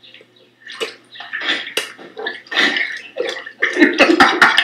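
Water splashing and sloshing in an indoor pool, in irregular bursts that grow louder, with sharper slaps near the end.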